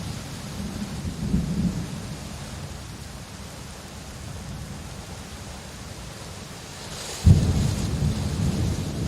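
Steady rain with thunder: a low rumble rolls in the first couple of seconds, then a sudden, louder crack of thunder comes about seven seconds in and keeps rumbling.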